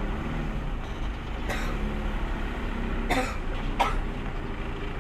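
A person coughing three times, about a second and a half in, after three seconds and just before four seconds, over a steady low truck engine idle.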